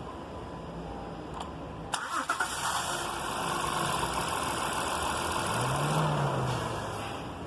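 Starter on a 2016 Honda Pilot's V6 engaging about two seconds in, with a short grinding rattle as the engine catches; the engine then runs steadily. The grind at the moment of starting is the fault being diagnosed: the starter drive snags as the engine fires.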